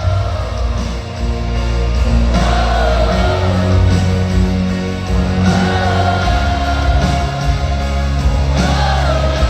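Live band music with a heavy sustained bass and guitar, and a sung melody wavering over it.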